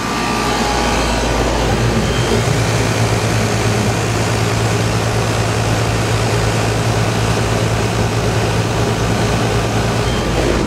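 Heil 5-ton central air conditioner condensing unit running: a steady rush from the condenser fan over a low, even compressor hum.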